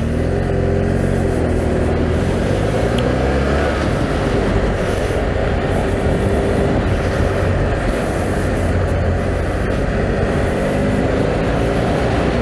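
BMW F800GS parallel-twin motorcycle engine under way, its pitch rising just after the start, running steadily, then changing pitch again near the end, over a steady rushing noise.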